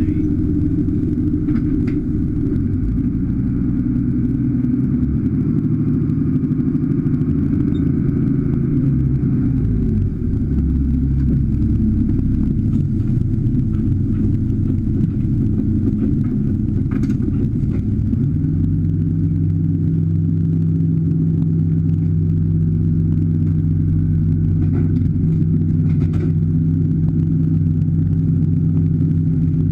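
Boat engine running steadily under way. It changes speed about ten seconds in and again about eighteen seconds in, then holds a steady pitch.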